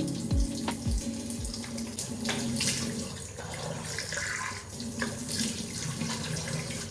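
Water running from a tap into a sink, with a few short falling low tones in the first second and a half.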